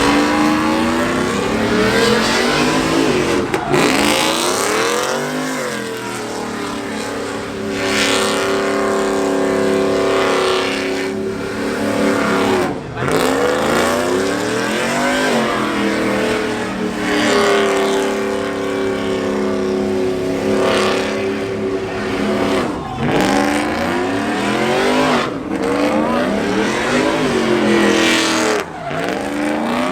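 A truck engine revving hard over and over, its pitch climbing and dropping back every few seconds.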